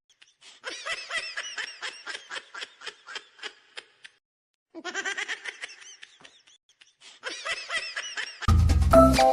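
Giggling laughter in quick pulsing bursts, in two runs, the second sounding like a repeat of the first. Loud music with a bass line and a bright melody cuts in near the end.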